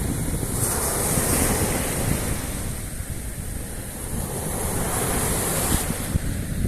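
Sea surf washing on the shore, with wind buffeting the microphone in a low rumble. The wash swells twice, about half a second in and again around five seconds in.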